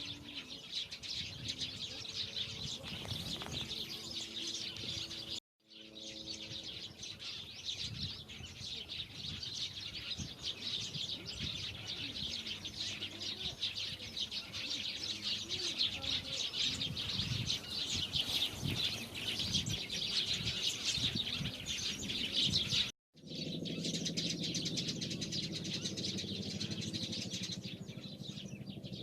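Dense, continuous chirping of many small birds, cut off briefly twice, about five seconds in and again near the three-quarter mark. After the second break a low steady rumble sits under the chirping.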